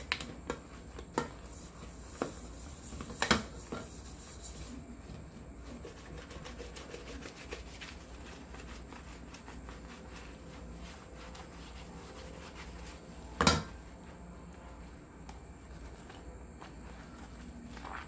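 Hands rubbing and working homemade soap in a cooking pot during a lather test. A few light knocks come in the first seconds, and one louder knock about three-quarters of the way through.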